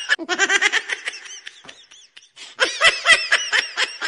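Someone laughing in quick, high-pitched ha-ha pulses: one bout, a brief lull about halfway, then a louder second bout.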